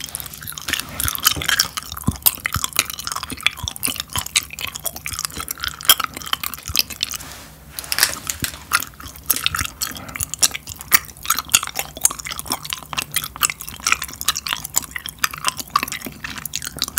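Close-up wet chewing and lip smacks as a soft, chewy Ready Q Chew jelly candy is chewed, with many small clicks and squishes and a short pause about seven and a half seconds in.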